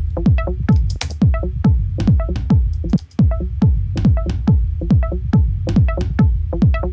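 Work-in-progress techno loop playing back from a music production program: a drum-machine kick on every beat, about two a second, with hi-hat ticks and short pitched percussion and synth blips. The loop drops out briefly about three seconds in before starting again.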